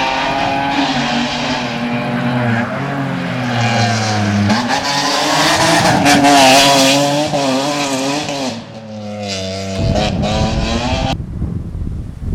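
Rally car engine under hard acceleration as the car passes, its pitch climbing and dropping sharply twice with gear changes. Near the end the engine note gives way to a low rumble of wind on the microphone.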